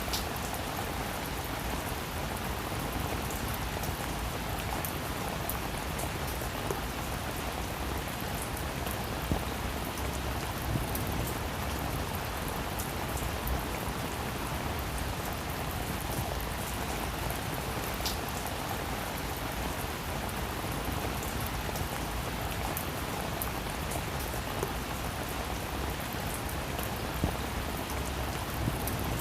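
Steady rain falling on a roof, an even patter with a few sharper single drop ticks scattered through it.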